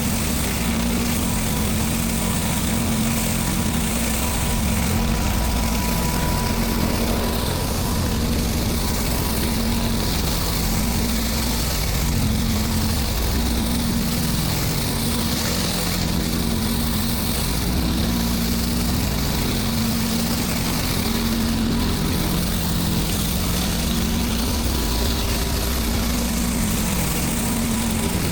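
Gas-engine pressure washer running steadily, with a continuous hiss of water spray.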